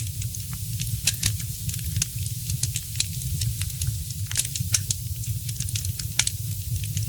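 Fire in a fireplace crackling: a dense, irregular run of sharp pops and snaps over a steady low rumble, with a few louder pops about a second in, past four seconds and past six seconds.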